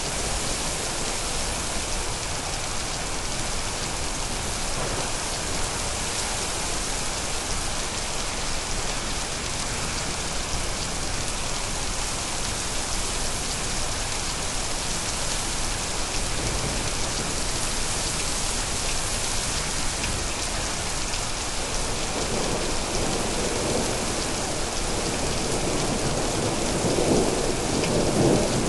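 Steady rain hissing, with a low rumble of thunder building about three-quarters of the way through and peaking near the end.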